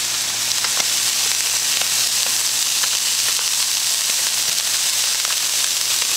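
Walleye fillets and garlic toast frying on a Blackstone portable griddle, freshly hit with oil: a steady sizzle with scattered small pops.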